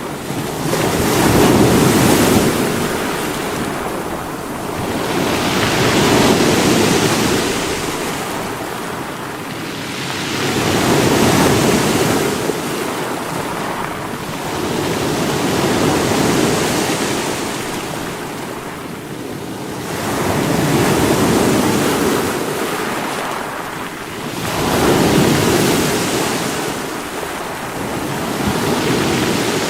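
Sea waves breaking against rocks, the surf swelling and easing in a slow cycle of about one surge every four to five seconds.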